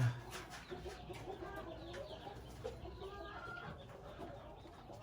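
Chickens clucking softly, with a few faint short calls and scattered light clicks.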